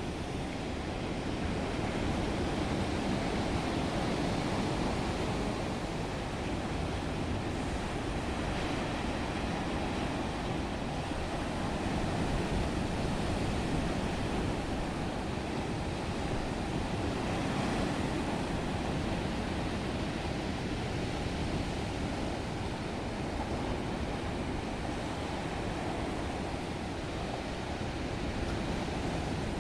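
Black Sea surf washing onto the shore: a steady rush of breaking waves that swells and eases every few seconds.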